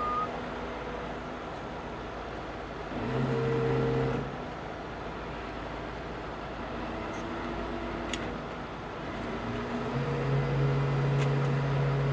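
Heavy truck diesel engine running, its note growing louder twice as the engine is brought up under load, the second time held near the end; typical of a tow truck working its winch to pull in a cable.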